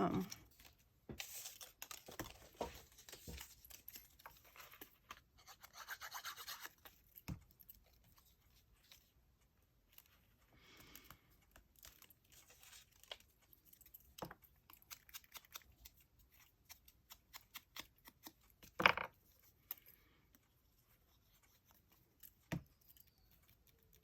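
Scissors snipping paper and paper rustling, faint and irregular, as labels are cut out, with a sharp knock on the table about 19 seconds in.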